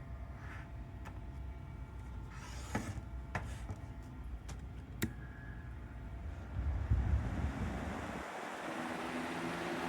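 Holmes box fan: a few sharp clicks, then the fan's rush of air builds from about six seconds in and settles into a steady run with a motor hum.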